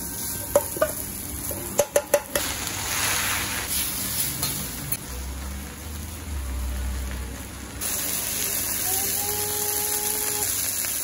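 Okonomiyaki batter and cabbage frying on a hot iron teppan griddle, with a steady sizzle. In the first couple of seconds a few sharp metal clanks come from the steel mixing bowl and spatulas against the griddle.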